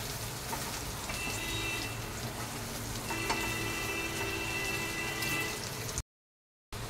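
Gram-flour-coated whole okra shallow-frying in hot oil in a steel pan, a steady crackling sizzle with a spatula stirring through it. A faint steady tone sounds twice in the background, and the sound breaks off briefly near the end.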